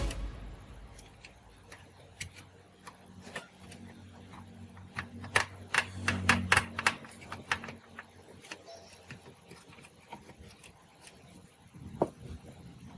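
Scattered sharp clicks and taps of small hard parts and tools being handled at a workbench, with a quick run of louder clicks about five to seven seconds in and a single sharp tick near the end, over a faint low hum.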